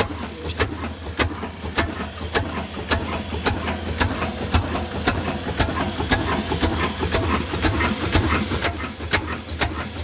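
Old black diesel engine running at slow speed, with a sharp knock about twice a second over a steady low hum. The beat quickens slightly near the end.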